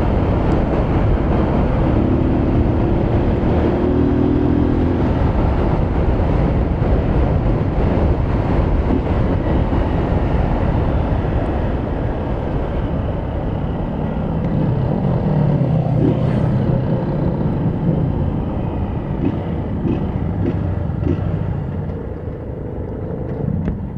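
Motorcycle riding: engine running under steady wind noise on the microphone, easing off a little near the end.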